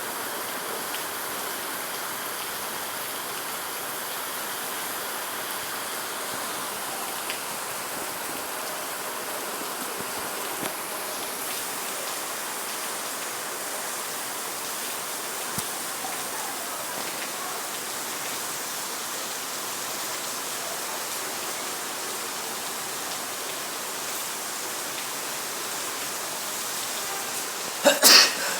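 Heavy rainstorm: a steady hiss of rain pouring down. A couple of short, louder bursts come near the end.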